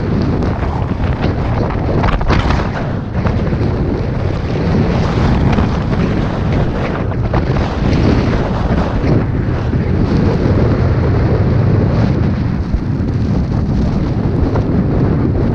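Strong wind buffeting the microphone: loud, low, rumbling wind noise that surges in gusts without a break.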